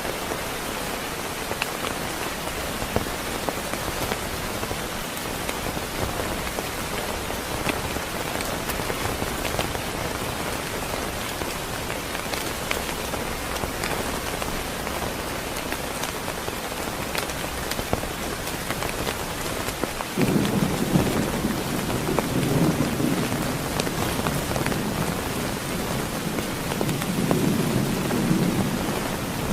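Heavy rain falling steadily on a surface, with scattered drops ticking close by. About two-thirds of the way through a low rolling rumble of thunder sets in suddenly and grumbles on, swelling again near the end.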